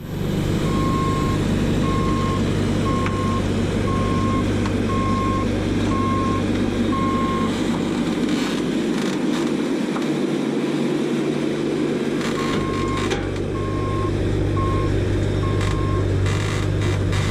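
Engine of a piece of farm machinery running steadily while its backup alarm beeps about once a second. The beeping stops for a few seconds midway, then starts again.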